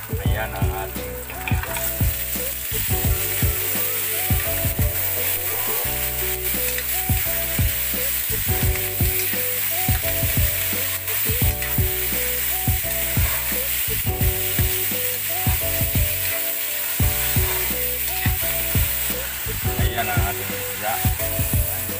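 Red onion, garlic, ginger and then sliced tomatoes sizzling in hot oil in a steel wok, stirred with a metal ladle that clicks and scrapes against the pan. The sizzle grows louder about two seconds in.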